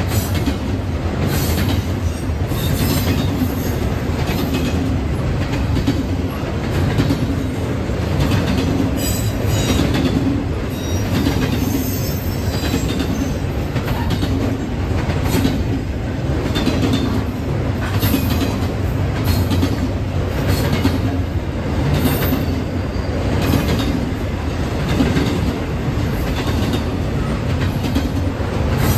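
A train rolling past on steel rails, its wheels clicking over rail joints in an uneven rhythm under a steady rumble, with a brief high wheel squeal near the middle.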